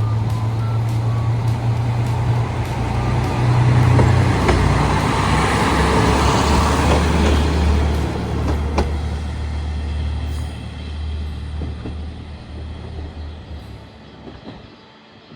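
A motor vehicle's engine and road noise going by. A low engine hum drops in pitch about a third of the way through, and the sound swells in the middle and then fades away toward the end.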